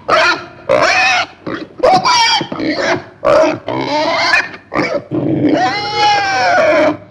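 Pig squealing and grunting in a run of loud calls, the longest a drawn-out squeal near the end.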